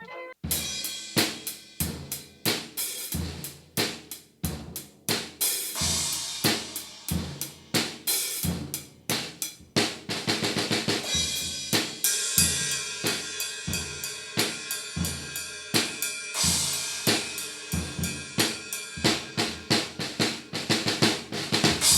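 Drum kit being played: snare hits, bass drum and cymbals in a steady run of strikes, the cymbal wash growing from about ten seconds in. The snare has a new Evans G2 coated head damped with Evans EQ pods to cut its ringing overtones.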